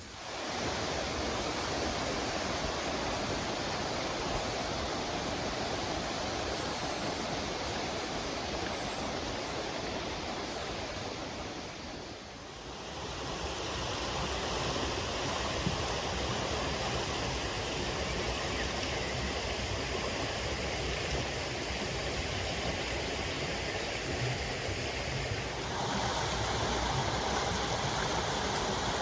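Steady rush of flowing water from a stream or small rapids. Its tone changes abruptly twice, about halfway through and near the end.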